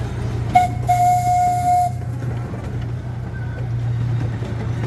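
Amusement-park train's whistle blowing a short toot, then one longer blast of about a second, with a hiss. The train runs on with a steady low hum underneath.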